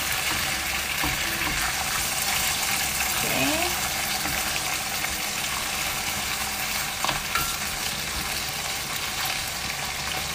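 Beef in sambal with petai and sliced onions sizzling steadily in a frying pan as it is stirred, with a few light clicks of the utensil against the pan.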